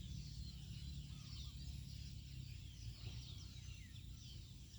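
Wild birds calling: many short, quick, descending chirps repeating over a low rumble.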